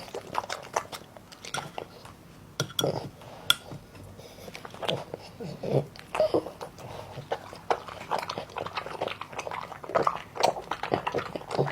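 An animal, likely a pet dog, chewing and eating: irregular crunching and smacking clicks, several a second.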